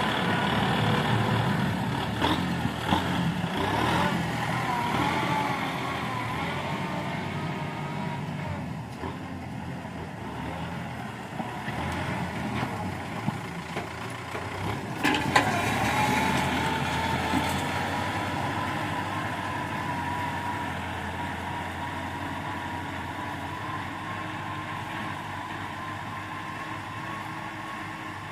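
Kubota tractor's diesel engine running as it plows, with a few clanks early on and one sharp clank about halfway through. The engine gradually gets quieter.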